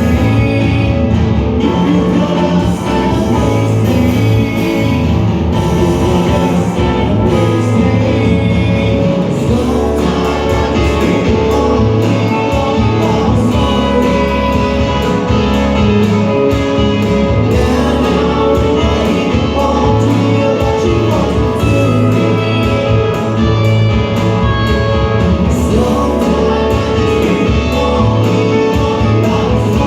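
Live rock band playing, with electric guitars, bass, drum kit and singing.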